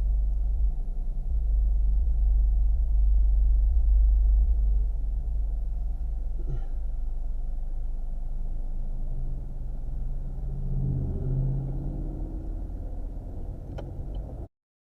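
Car driving, heard from inside the cabin: a steady low road-and-engine rumble, with an engine tone rising and falling about two-thirds of the way through, a single click near the end, and then the sound cuts off abruptly.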